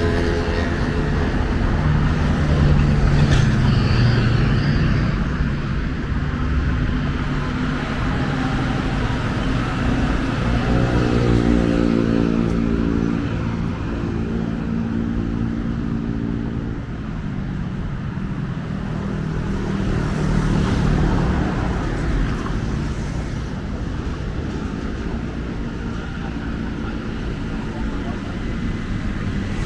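Street traffic: engines of passing cars and motorbikes over steady road noise. About ten seconds in, one engine speeds up with a rising pitch, and another vehicle swells past later.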